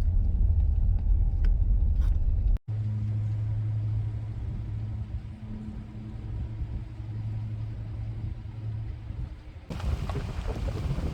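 A vehicle driving, heard from inside as a low rumble of engine and road. After a sudden break about two and a half seconds in, a steady low engine hum continues, and a broad hiss of wind or tyre noise rises near the end.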